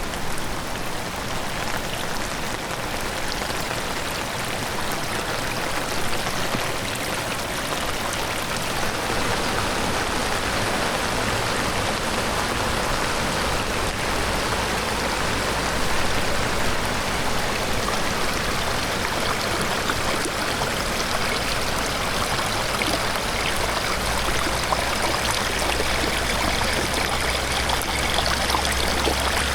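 Rain-swollen stream rushing steadily, with rain falling.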